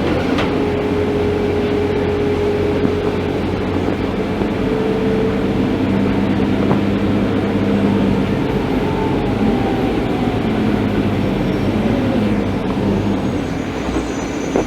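Scania K310IB articulated bus running, a steady diesel drone with a whine on top; from about eight seconds in a second whine slides down in pitch as the bus slows.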